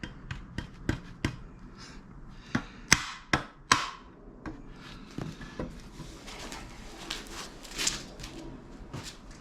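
Hand tools and metal parts of a brake pedal assembly clicking and knocking during reassembly. Three sharp, loud knocks come about three to four seconds in, with lighter clicks and taps around them.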